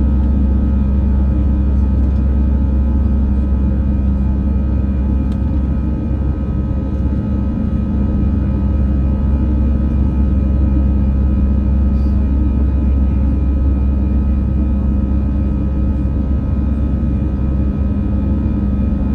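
Steady drone of an Airbus A319 airliner in flight: a loud low rumble with a few steady engine tones on top, unchanging throughout.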